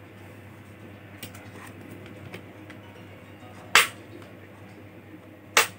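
Two sharp clicks about two seconds apart, the second near the end, with a few faint ticks between, from hands and tools working on a laptop's hardware during disassembly.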